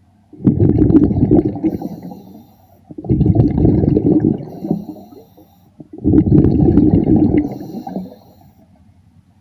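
A diver breathing underwater: three exhalations of air, each about two seconds long and about three seconds apart, bubble out of the regulator with a loud, low rumbling gurgle.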